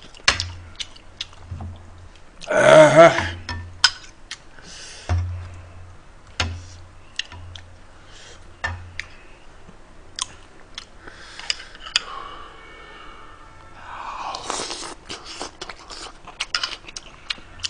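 Close-miked chewing of rice-cake dumpling soup, with many short clicks of a metal ladle and spoon against the pot and bowl. A short vocal sound is the loudest thing, about three seconds in.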